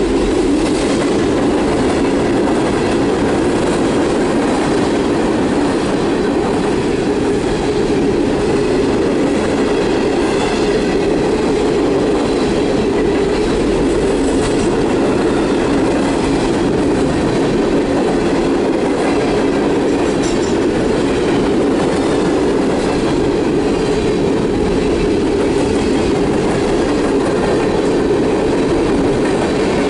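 Empty coal hopper cars of a freight train rolling steadily past, wheels rumbling and clacking on the rail, with faint wheel squeal now and then.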